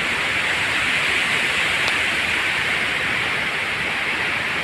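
Steady rush of water pouring down a tall waterfall, an even unbroken noise.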